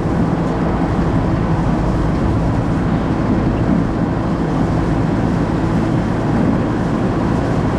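Steady road and engine noise inside the cabin of a moving 2004 Ford Focus: an even drone with a low hum from the engine.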